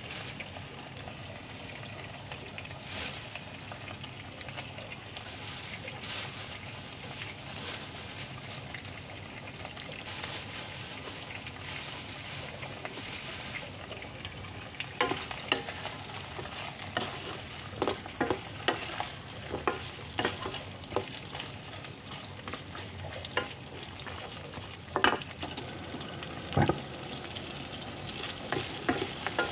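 Chicken, potato and chilli frying in a nonstick pan with a steady sizzle. From about halfway in, a spatula stirring the food scrapes and knocks against the pan again and again.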